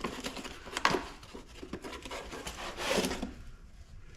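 Handling noise from a cast-aluminium furnace gas valve being turned over on a workbench: scattered light knocks and rubbing, with a sharper knock about a second in and a short clatter near the end.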